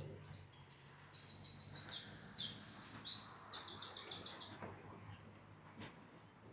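A small songbird singing one high, fast song of rapid trilled note series, with a single down-slurred note in the middle, lasting about four seconds over a faint low steady hum.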